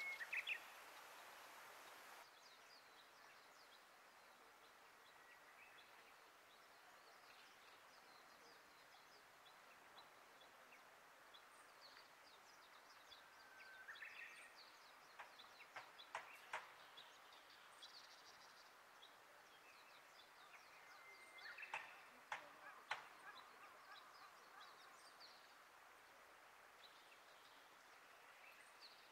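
Quiet outdoor ambience with small birds calling and chirping on and off. The calls are louder about halfway through and again a little later, mixed with a few sharp clicks.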